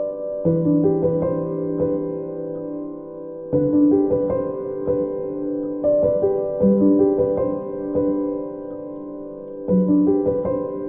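Background music: soft solo piano playing slow, repeated arpeggiated chords.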